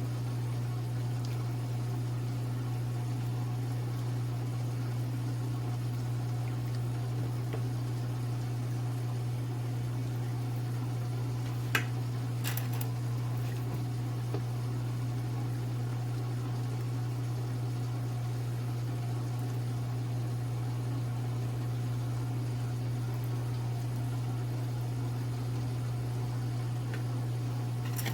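Steady low electrical hum that runs unchanged, with a couple of faint light clicks about halfway through.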